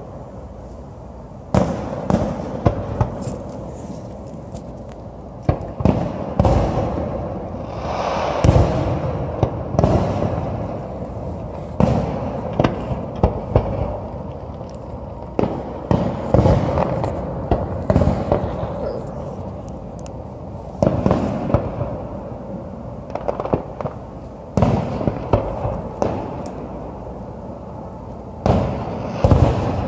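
Aerial firework shells bursting one after another: many sharp bangs spread through the half minute, each trailing off in a fading rumble.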